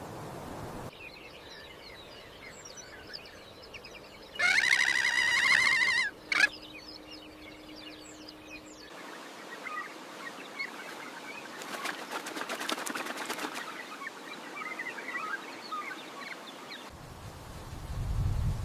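Birds chirping in the background. About four seconds in there is a loud buzzy call lasting about a second and a half, followed by a short call. Later comes a fast rattling trill.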